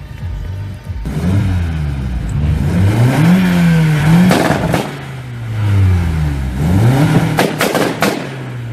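Seat Leon Mk1's engine revved repeatedly as the car creeps forward: the pitch climbs and falls several times. There are a few sharp cracks around the middle and near the end as the revs drop.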